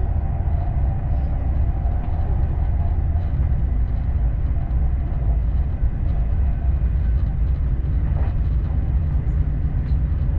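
ÖBB Railjet train running at speed: a steady, low rumble of wheels on rail with an even level throughout.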